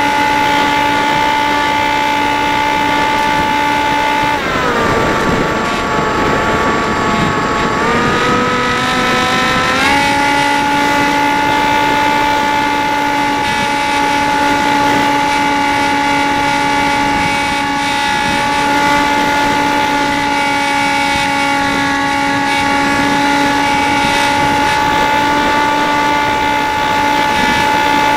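Dynam Hawk Sky RC airplane's electric motor and propeller whining steadily in flight. About four seconds in the pitch drops and wavers, then about ten seconds in it climbs back to a steady whine.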